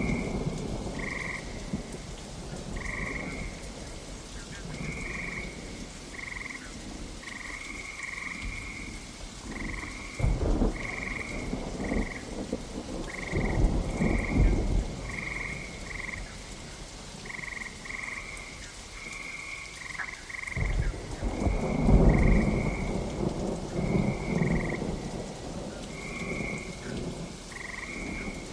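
Steady rain with frogs croaking throughout, short calls about once a second. Thunder rumbles roll in several times; the loudest comes about three-quarters of the way through.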